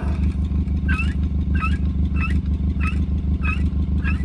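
An engine running steadily with an even low pulse, with a short squeak repeating about every two-thirds of a second over it.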